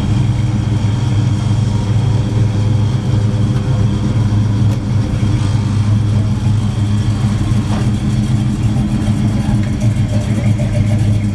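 Car engine idling, a steady low hum with no revving.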